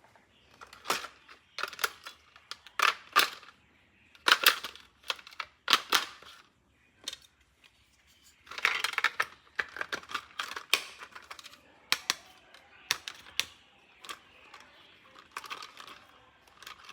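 Hard plastic toy parts being handled: irregular sharp clicks and knocks, some in quick pairs, with a rustle of packaging about nine seconds in.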